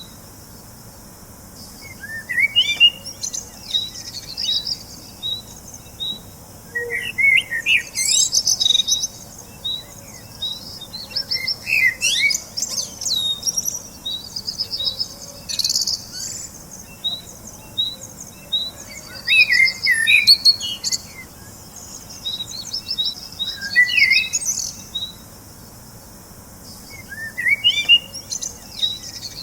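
Birds singing: a short warbled song phrase comes about every four seconds, over an even series of short high chirps about twice a second.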